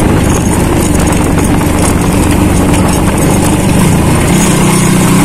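Small motorcycle engine running steadily while riding, heard from the rider's seat over a steady rush of wind and road noise. The engine note rises a little about four seconds in.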